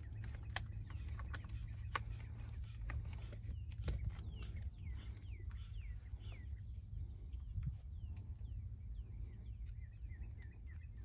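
Birds chirping in many short, falling notes over a steady low rumble of outdoor background noise, with a few faint clicks.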